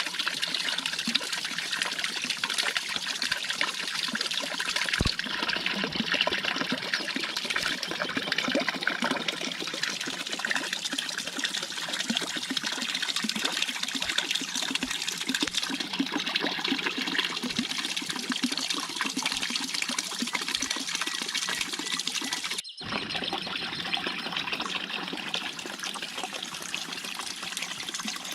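Water trickling and splashing steadily, with a brief break about 23 seconds in.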